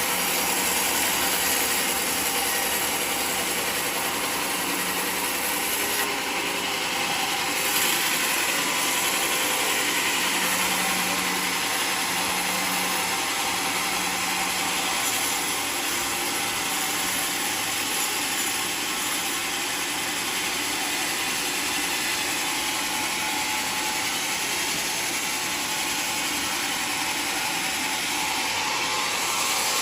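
Portable sawmill running steadily as it saws through a mahogany log, an even, unbroken noise that holds the same level throughout.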